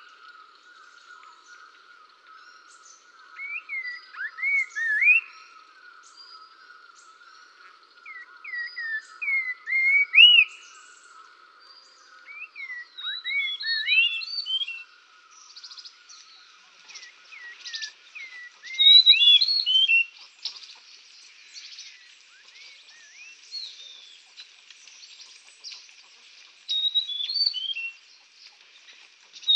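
Songbirds chirping in short bursts of quick rising and falling notes every few seconds, over a steady high-pitched background hiss.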